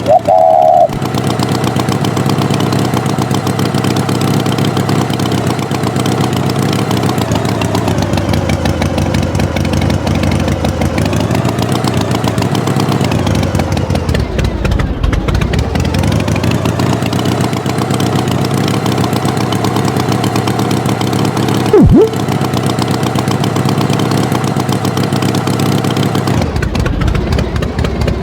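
Tractor engine running steadily, its pitch easing down and back up a few times, with the deepest dip about halfway through. A short, loud tone sounds right at the start, and a brief loud sound comes about 22 seconds in.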